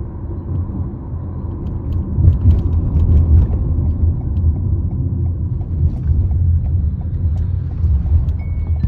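Low road rumble inside a 2019 Toyota RAV4 driving over a bumpy road, with scattered sharp rattling clicks from the seat belt height adjuster, its plastic cover opened. The clicks come in clusters, a few seconds in and again near the end.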